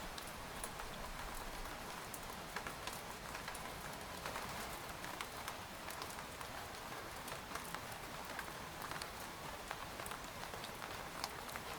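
Rain falling on a tent: a steady hiss with many scattered individual drops ticking on the fabric.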